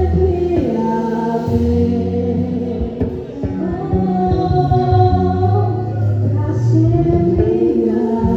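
Live gospel worship music with sung vocals over a band with bass.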